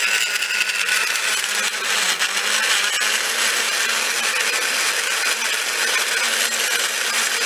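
Countertop blender running steadily, churning a whole unpeeled orange and an egg still in its shell with soy sauce and honey.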